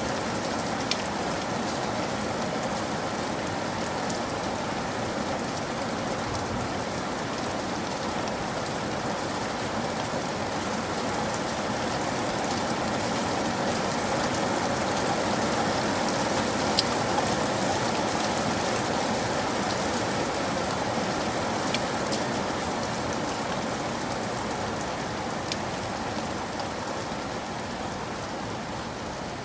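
Steady heavy rain falling and pattering on surfaces, with scattered sharper drop hits, swelling slightly about halfway through and easing a little near the end.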